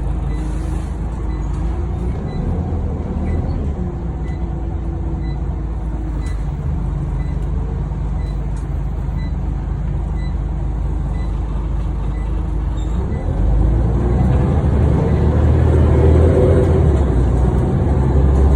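Scania OmniCity bus engine running, heard from inside the saloon, with a regular light ticking about twice a second through the first half. About two-thirds of the way through the engine note rises and grows louder as the bus accelerates.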